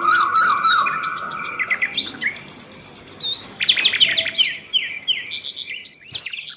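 Several songbirds singing at once: a lower warbling song gives way to fast high trills and rapid repeated notes, overlapping throughout.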